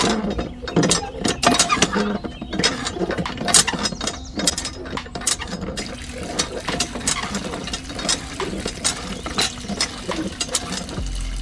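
A miniature DIY hand pump's lever being worked, its mechanism clicking and rattling rapidly and unevenly. From about halfway through, a thin stream of water trickles from the spout into the pool.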